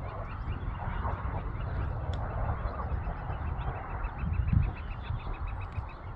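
Birds calling over a low, steady rumble, with a quick run of short high chirps about halfway through.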